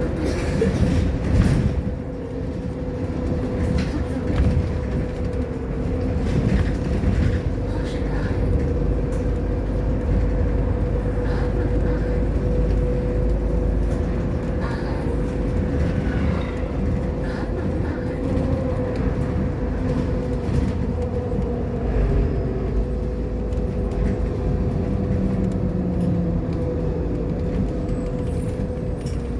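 Irisbus Agora L articulated city bus running along its route: a steady drone of engine and drivetrain with a held whine, over road rumble and scattered rattles.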